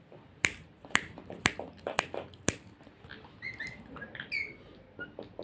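Five crisp finger snaps in an even beat, about two a second, followed by a few short chirps and a falling whistle from a pet parrot.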